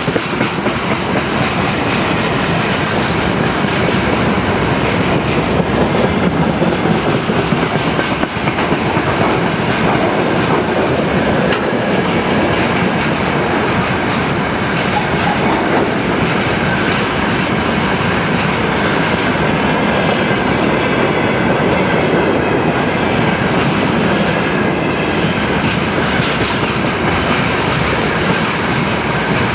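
Freight train rolling past at steady speed, its wagon wheels clattering over the rails. Brief high-pitched wheel squeals come and go several times.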